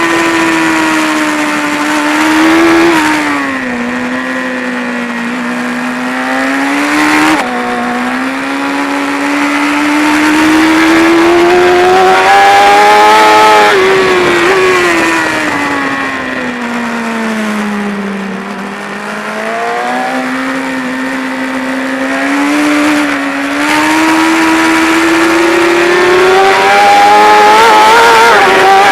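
BMW S1000RR's inline-four engine at track pace, heard from onboard. Its pitch falls under braking and climbs under acceleration through several cycles, with abrupt steps at gear changes about three and seven seconds in, over a steady rush of wind noise.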